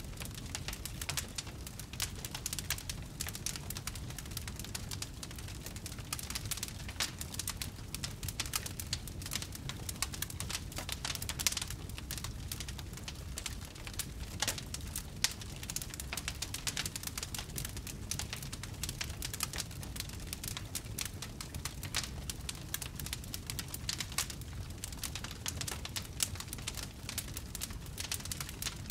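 Wood fire crackling, with many small sharp pops scattered throughout over a steady low rumble.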